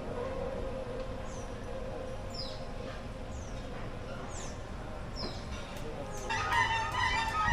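A bird repeating a short, high, falling whistle about once a second. A louder, harsher sound sets in near the end.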